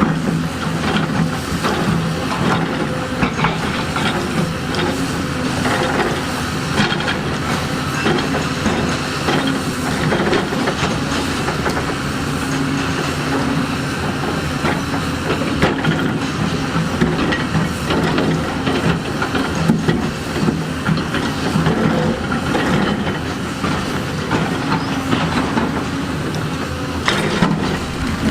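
Diesel engine of heavy construction machinery running steadily under load, with frequent clanks, knocks and scrapes of steel on rock throughout.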